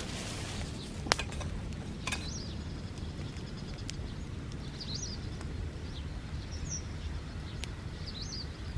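A bonfire of dry grass burning with a steady low rumble and a few sharp crackles and pops, the loudest just over a second in. A bird chirps four times in the background.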